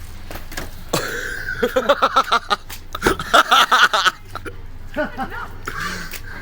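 A person laughing hard in two runs of quick pulses, starting about a second in and again about three seconds in.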